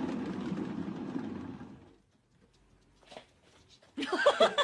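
Cat exercise wheel rumbling steadily as a cat runs in it, dying away about two seconds in, followed by a few faint clicks. Near the end, loud music starts.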